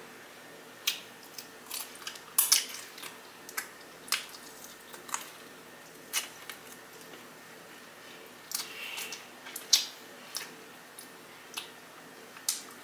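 Close-miked eating sounds: chewing and biting meat off seasoned chicken wings, with irregular wet smacks and clicks.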